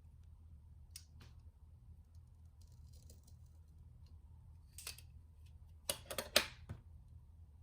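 Small hand-work noises: a faint click about a second in, a short scrape near five seconds, then a quick run of sharp clicks and scrapes about six seconds in, like small parts and tools being handled on a work surface, over a steady low hum.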